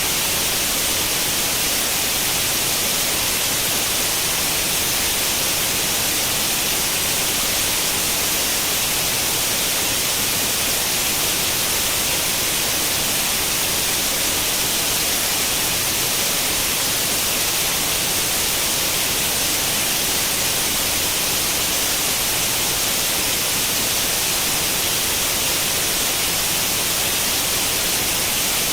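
Steady, unchanging white-noise hiss like the static of an old tube television tuned to no channel, brightest in the high frequencies.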